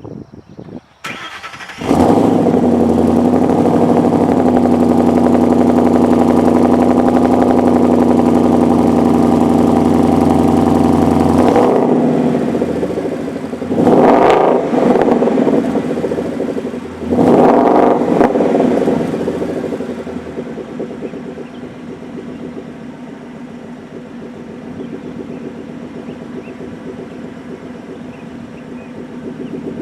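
Ford Mustang GT's 5.0 L V8 breathing through a Solo Performance axle-back exhaust: it cranks and fires about two seconds in, holds a high idle for about ten seconds, drops, is blipped twice, then settles to a steady lower idle.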